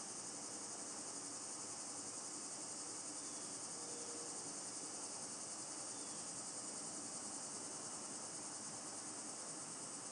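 Steady, high-pitched chorus of summer evening insects trilling continuously, with a fine, even pulsing.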